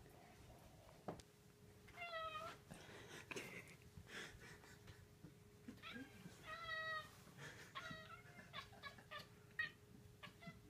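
Domestic cats meowing at birds through a window: two drawn-out, wavering meows, then a quick run of short chirping, click-like calls. This is the chattering cats make at prey they watch but cannot reach.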